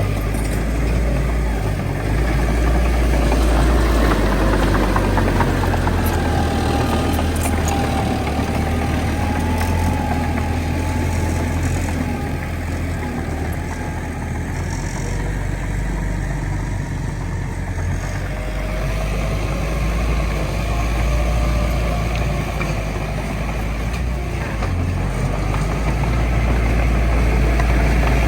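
Heavy diesel earth-moving machinery running steadily: a deep, continuous engine rumble with a faint whine that wavers in pitch.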